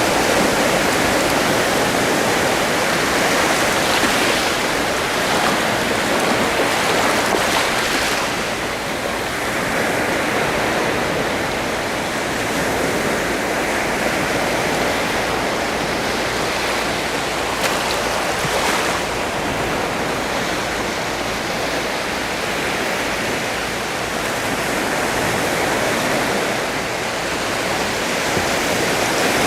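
Sea surf: a steady rush of waves washing ashore, slowly swelling and easing, with a few brighter splashing washes.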